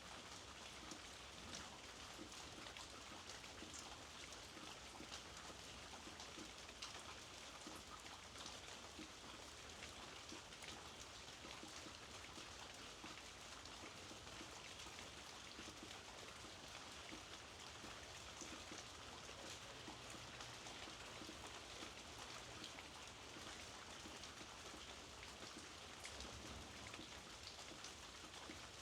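Steady, soft rainfall, with a continuous hiss of falling rain and scattered ticks of individual drops.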